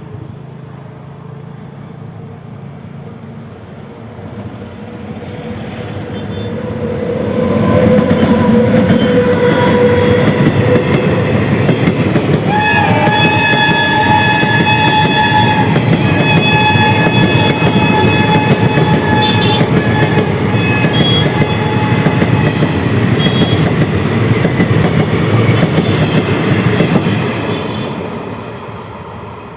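A train approaching and passing close by: the rumble of its running gear builds, stays loud for about twenty seconds, then fades. Through the middle of the pass a horn sounds one long held note.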